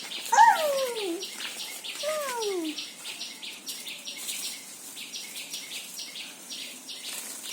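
Rhythmic high-pitched chirping, about five or six chirps a second, from a bird or insect chorus in the trees, steady throughout. Twice in the first three seconds a voice calls out in a long falling tone, the first call the loudest sound.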